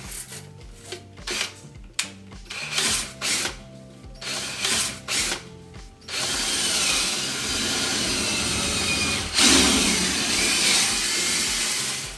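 Power drill spinning a rotary dryer vent cleaning brush on extension rods inside a rigid metal dryer duct. It starts in short stop-start bursts, then about halfway through runs continuously, getting louder a few seconds later.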